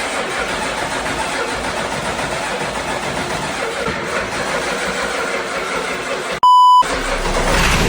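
Twin-turbo 7.3 diesel engine running with a steady, even noise. About six and a half seconds in, a short, loud electronic beep cuts across it.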